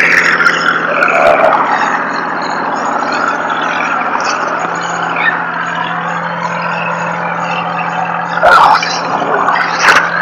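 Tow truck running with a steady low hum and a wavering higher whine over it, broken by two short, loud bursts of noise near the end.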